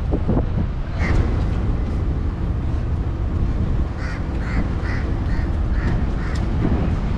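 Birds calling in a string of short calls, about two a second, starting a little past the middle, over a steady low rumble of wind on the microphone.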